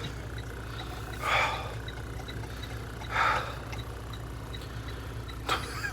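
Diesel truck engine idling with a steady low hum, with two brief hiss-like sounds about one and three seconds in.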